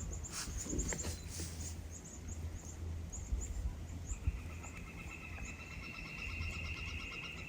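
Small birds calling: short high chirps repeat throughout. From about four seconds in, a steady buzzy trill is held to the end, over a low rumble.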